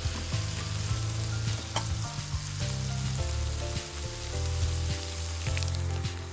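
Food sizzling as it fries in a pan, a steady crackling hiss, with background music playing under it.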